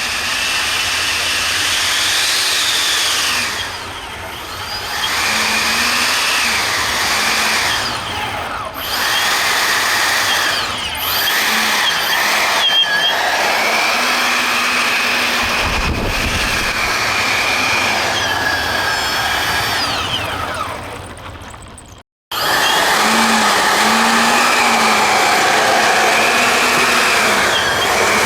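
Two 90 mm Dr. Mad Thrust electric ducted fans running at high power, a loud whine over a rushing noise, the pitch rising and falling as the throttle changes. The sound cuts out abruptly about 22 seconds in and comes straight back.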